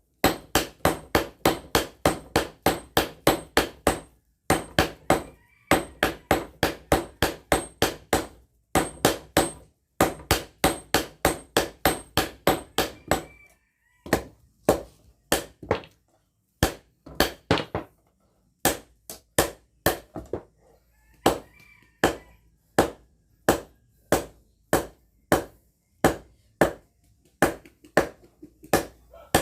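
Hammer striking steel in runs of fast, ringing blows, about four a second, broken by short pauses. About halfway through they give way to slower, more spaced single strikes. This is a blacksmith hammer-forging a machete blade from railway-rail steel.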